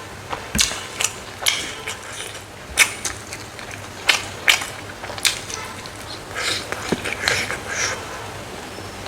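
Close-miked eating of dried smoked frog: irregular crisp crunches and cracks as the dry meat and small bones are bitten and chewed, about one or two a second, with a denser run of chewing near the end.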